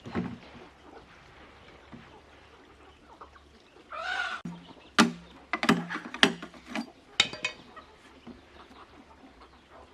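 Chickens clucking, with one short pitched call about four seconds in, then a run of sharp knocks between about five and seven and a half seconds.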